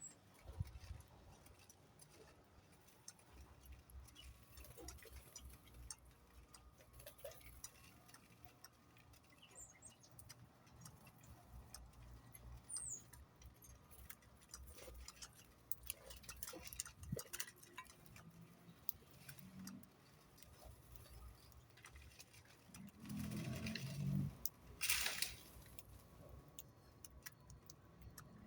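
Faint, irregular ticking and tapping with a few brief high chirps of small birds. A louder burst of rustling noise comes near the end.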